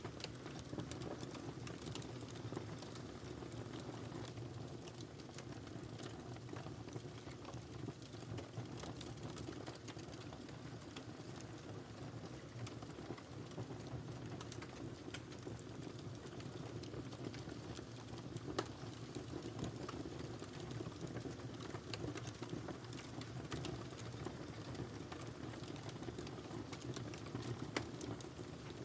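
Wood fire crackling steadily in a fireplace: frequent small snaps and pops over a low, even rumble of burning.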